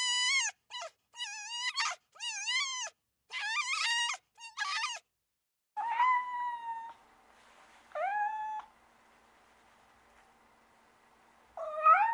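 An animal calling. A quick run of short, high, wavering cries is followed by two longer whining calls about two seconds apart and a rising cry near the end.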